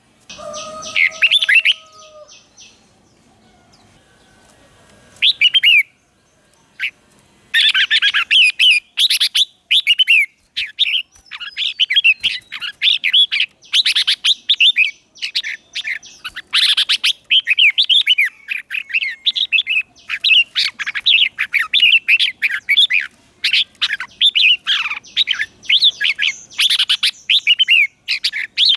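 Red-whiskered bulbul singing in short, quick warbled phrases. After a brief opening it pauses for a few seconds, then the phrases come one after another in rapid succession.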